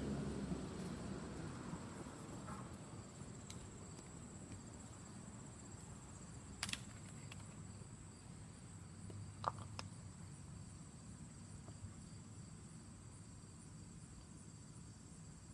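Steady high-pitched insect buzz in the background. A passing vehicle fades away over the first couple of seconds, and two sharp clicks come about seven and nine and a half seconds in.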